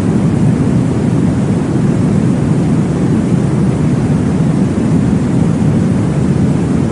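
Steady, low-pitched whooshing noise, a womb sound meant to soothe a baby to sleep, imitating blood flow heard inside the uterus. It is even throughout, with no distinct beats standing out.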